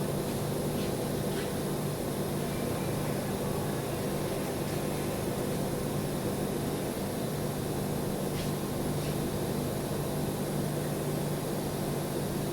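A steady machine hum with an even hiss, unchanging throughout, with a few faint ticks.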